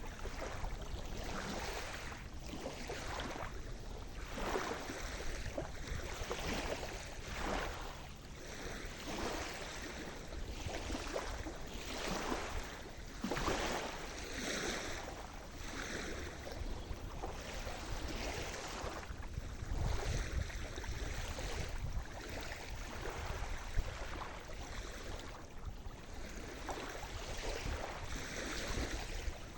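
Sea surf: small waves breaking and washing up the shore one after another, a continuous hiss that swells and eases every second or two.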